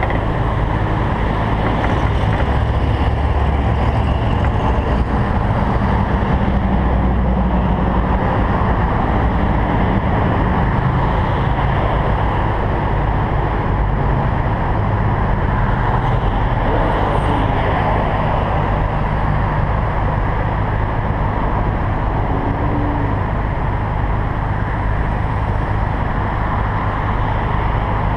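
Single-turbo Toyota Supra engine running at a fairly steady speed with a low, even drone, under a constant rushing noise.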